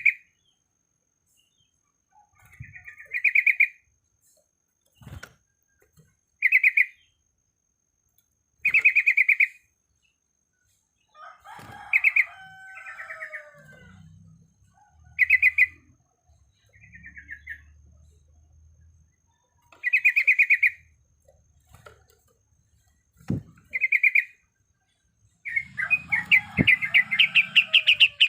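Yellow-vented bulbul (trucuk) calling: short bubbly chattering phrases repeated every two or three seconds, with a longer, faster run of chatter near the end.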